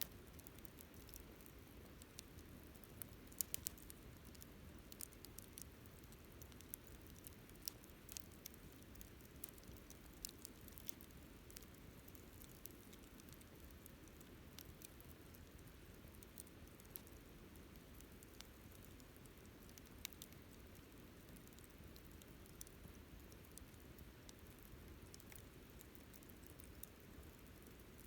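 Wood campfire crackling softly: scattered, irregular sharp pops and snaps over a faint low background, with a quick cluster of pops about three and a half seconds in.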